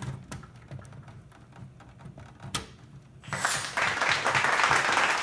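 Hands pulling the floppy drive's power connector and the drive itself free inside a Dell OptiPlex GX520 desktop case. First a few light clicks and taps, then, about three seconds in, a loud, dense scraping rattle of plastic and metal parts rubbing.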